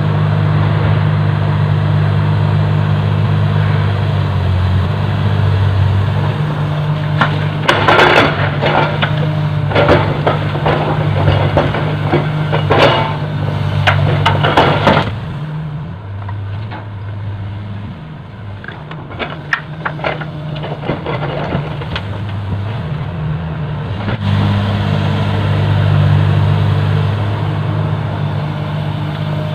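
Heavy diesel engine of an excavator loading a dump truck running steadily, with a burst of clattering impacts in the middle as soil and rock drop into the truck's steel bed. The engine note falls away for several seconds after that and picks up again near the end.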